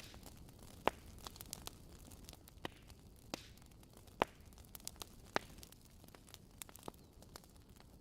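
Wood fire crackling in a fireplace: irregular sharp pops and snaps over a low, steady hiss, with a few louder pops standing out.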